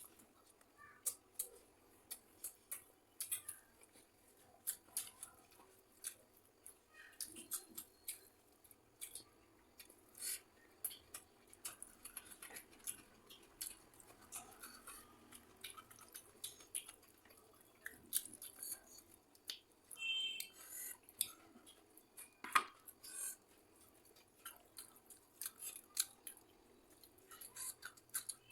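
Close-up eating sounds: irregular sharp clicks and crunches, one to three a second, with one louder clink about two-thirds of the way through.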